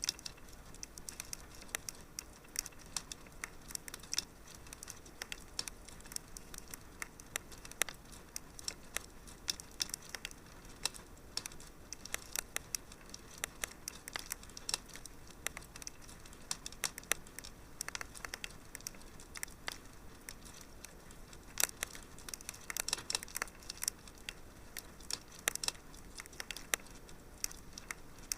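Fireplace fire crackling: irregular sharp pops and snaps over a soft steady hiss, with a busier run of pops a little past two-thirds of the way through.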